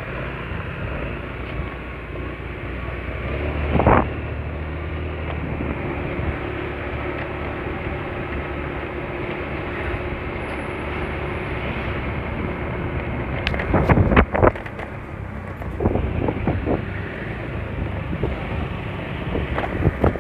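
Honda Spacy scooter's small single-cylinder engine running steadily while riding, with wind on the microphone. A sharp knock about four seconds in and a quick cluster of knocks about two-thirds of the way through.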